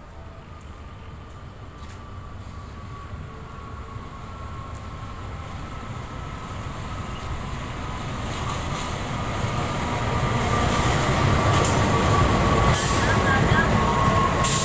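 A CC 206 diesel-electric locomotive hauling a passenger train approaches and comes alongside, its engine and wheel rumble growing steadily louder. A thin steady whine runs through, and short bursts of high hiss come near the end.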